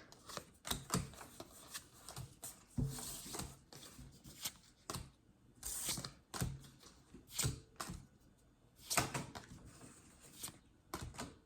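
Pokémon trading cards being handled and flipped through one by one: irregular soft flicks, taps and rustles of card stock.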